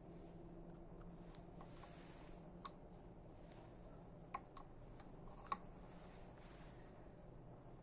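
Near-silent workshop room tone broken by three small, sharp clicks in the middle, the last one the loudest.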